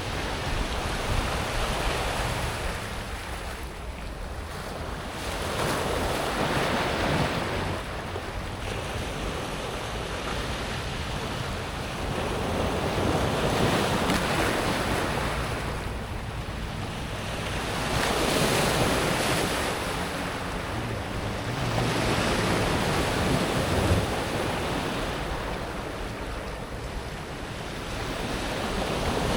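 Small sea waves breaking and washing up and back over a pebble beach, the water rushing through the smooth stones; the surge swells and fades about every four to six seconds.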